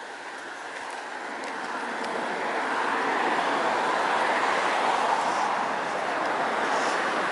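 Road traffic noise, growing louder over the first three seconds as vehicles approach and then holding steady.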